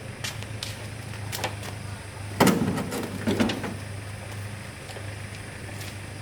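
A steady low hum with a series of knocks and clatters over it; the loudest comes about two and a half seconds in, followed by a smaller one about a second later.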